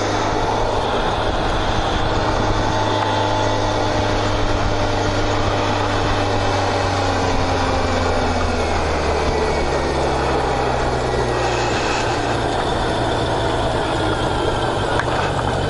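Motorcycle engine running steadily under way, with wind and road noise. Around eleven seconds in, the engine note steps down a little.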